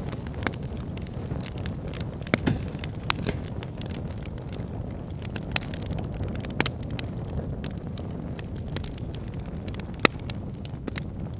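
Bonfire of wood burning: a steady low rush with frequent sharp crackles and pops, one louder pop near the end.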